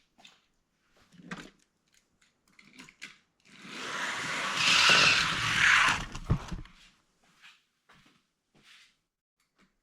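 A small die-cast toy car rolling down a plastic toy track with a rushing, rattling noise that builds for about three seconds and ends in a sharp clack. Light clicks of the car and track being handled come before and after.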